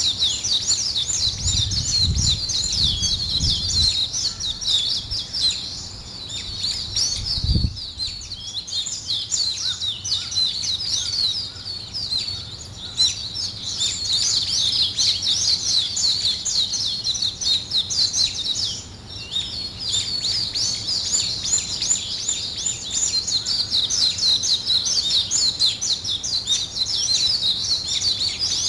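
Morning chorus of many small birds, a dense continuous mass of high, quick chirps and twitters overlapping with no break. A few low rumbles occur in the first few seconds, and a single low thump comes just before eight seconds in.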